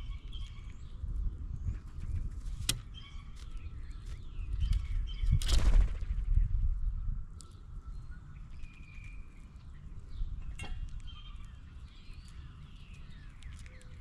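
Small birds chirping repeatedly over a low rumble with soft thumps, broken by one loud, harsh, noisy burst of under a second about five seconds in and a couple of sharp clicks.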